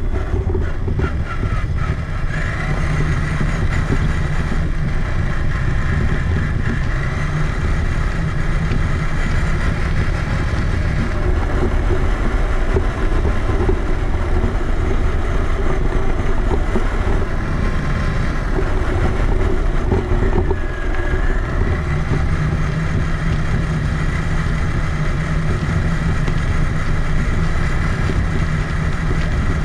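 Electric Traxxas Summit 1/10-scale RC truck driving, heard from a camera mounted on its body: a continuous motor and gear whine that dips and rises in pitch with throttle, over a heavy rumble from the chassis and tyres.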